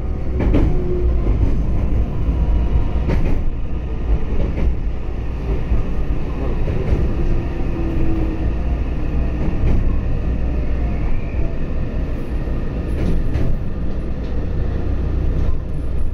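Inside a Meitetsu electric train's passenger car: the steady rumble of wheels on rail as the train slows into a station platform, with a few short knocks from the track.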